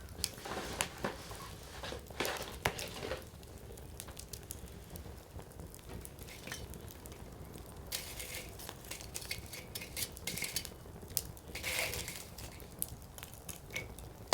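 Firewood burning in a Coleman Fire Disc fire pit, crackling with irregular sharp pops and short hissing flare-ups. The pops cluster about a second and two to three seconds in, and the hissing comes around eight and twelve seconds in.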